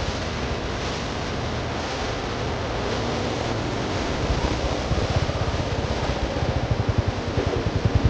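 Single-cylinder motorcycle with a modified exhaust: a steady rushing noise, then from about halfway an even exhaust thump of roughly six beats a second that grows louder.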